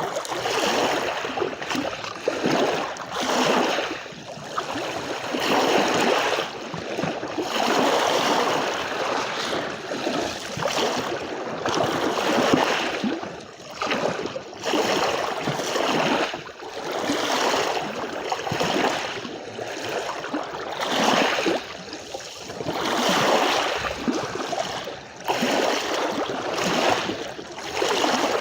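Sea waves washing onto a beach: a steady rushing of water that swells and falls back every second or two.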